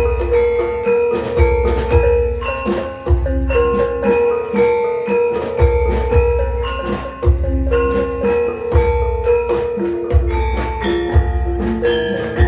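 Javanese gamelan ensemble playing a gending: bronze metallophones ring out a steady stepping melody of held notes, punctuated by deep low strokes every second or two.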